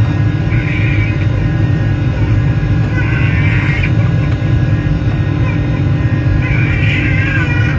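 Steady low drone of a Boeing 747-400's cabin in flight: engine and airflow noise with a constant hum over it. Brief faint sounds, likely voices, come through now and then.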